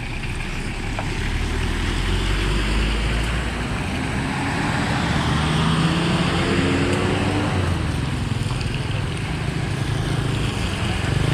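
Motor vehicle engine running over a steady noise of traffic, its pitch climbing and falling between about five and eight seconds in.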